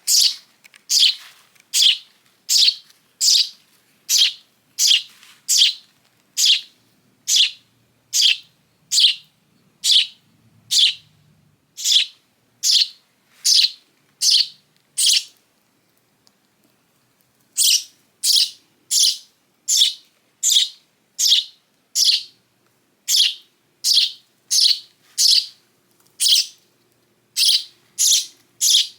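Hand-raised young sparrow chirping over and over, about one and a half sharp, high, downward-sweeping chirps a second, with a pause of about two seconds midway.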